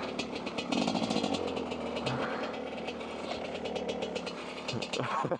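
Dirtbike engine running steadily at low revs, a fast even chugging of firing pulses.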